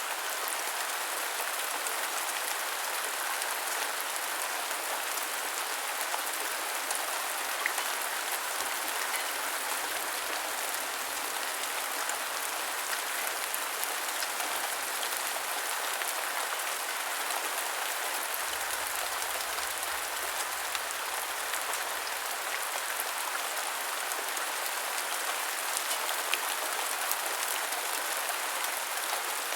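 Heavy rain falling steadily, a continuous even hiss with scattered sharp drop clicks.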